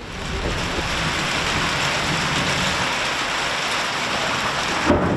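Steady rain falling, starting suddenly and holding an even, dense hiss.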